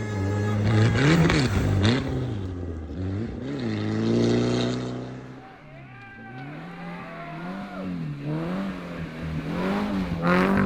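Rally car engines revving hard, the pitch climbing and dropping with throttle and gear changes as cars go by. It is loudest about a second in, again around four seconds, and near the end.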